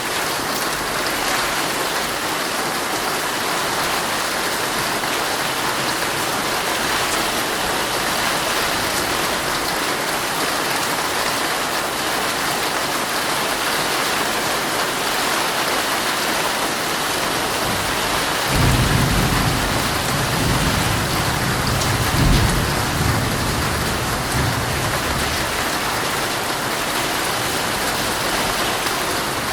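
Heavy rain falling steadily on a tent. Past the middle, a low roll of thunder rises, peaks and dies away over several seconds.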